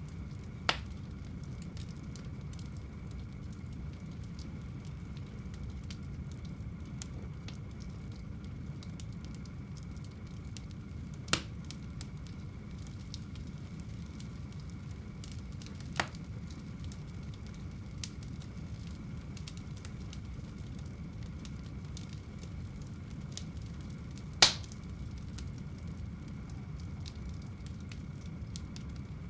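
Wood fire burning in a home fireplace: a steady low rumble with small crackles throughout, and four sharp pops of the wood, the loudest about three-quarters of the way through.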